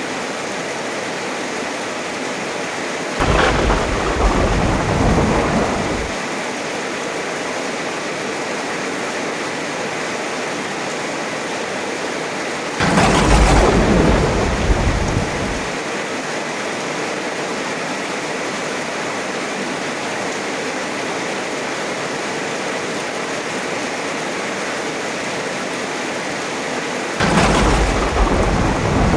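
Heavy rain falling steadily, with thunder three times. Each clap starts suddenly and rumbles for about three seconds: a few seconds in, near the middle, and again near the end.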